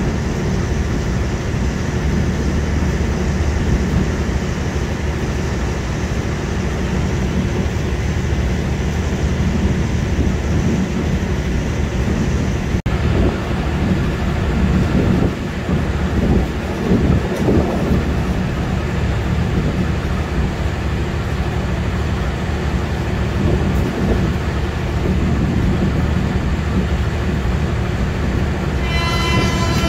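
Steady low rumble of rail traffic, then an electric commuter train's horn sounds briefly near the end.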